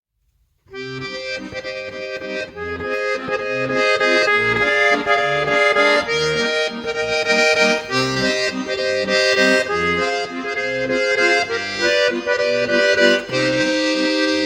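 Bayan (Russian button accordion) playing a waltz: a melody over a repeating bass accompaniment, starting about a second in.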